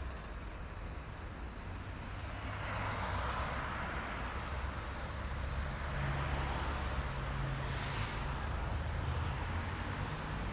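City road traffic: cars passing one after another, their tyre and engine noise swelling about three seconds in and again around six to eight seconds, over a steady low rumble of engines.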